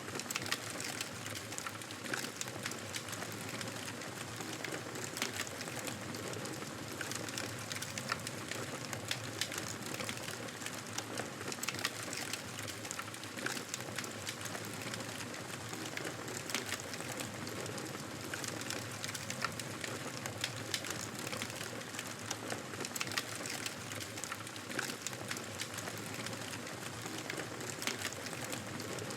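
Wood fire crackling in a fireplace: a steady low rush dotted with frequent small snaps and pops.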